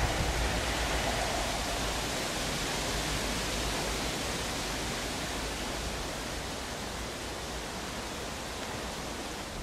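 Class 37 diesel-hauled test train moving away through a tunnel: a steady rushing rumble that slowly fades.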